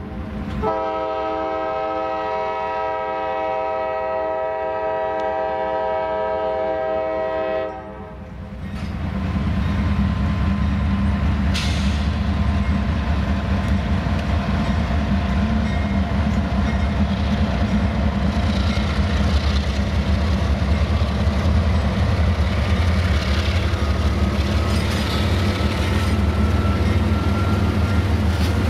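Locomotive air horn sounding a chord in one long blast of about seven seconds. It breaks off, and a train's loud, steady low rumble follows as it passes close by.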